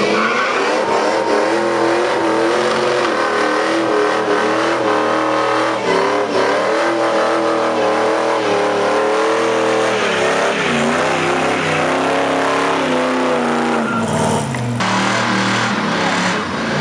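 First-generation Ford Mustang's engine held at high revs in a burnout, the note wavering up and down as the rear tyres spin and smoke on the asphalt. Near the end the engine note drops and a lower engine sound takes over.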